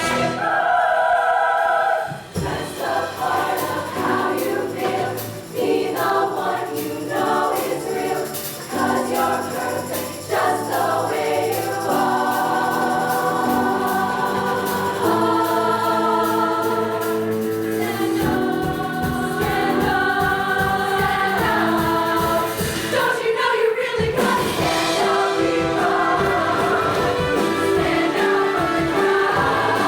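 Show choir singing with a backing band, sustained chords of massed voices over the accompaniment.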